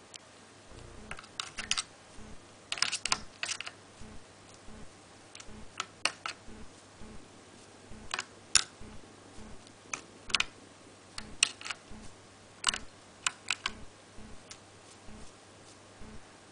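Java sparrow at a clear plastic bath, its beak and feet making irregular sharp clicks and taps on the plastic and water, singly and in quick clusters.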